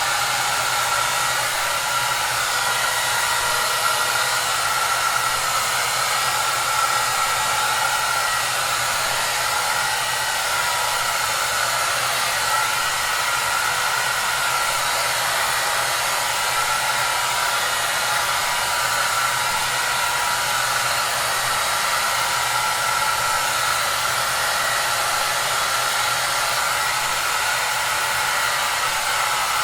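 Hair dryer running steadily: an even rush of blown air with a faint steady whine and a low motor hum beneath it.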